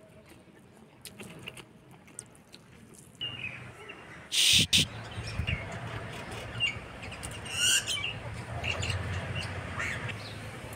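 Birds chirping and calling, starting about three seconds in, with a loud, sharp double sound a little after four seconds and another call near eight seconds, over a low steady background rumble.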